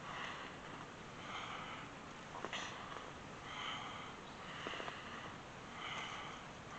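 Rhythmic breathing through the nose, a soft puff about every second, as inhales and exhales follow the cat-cow spinal flexes, with two faint clicks midway.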